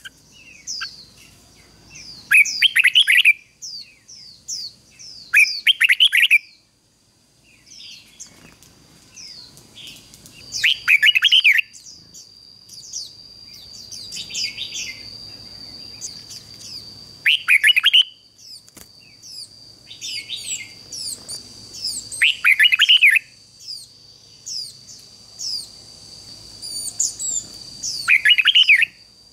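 Red-whiskered bulbul singing: six loud, short phrases of quick warbled notes spaced a few seconds apart, with many softer high chirps between them. A steady thin high whine runs underneath.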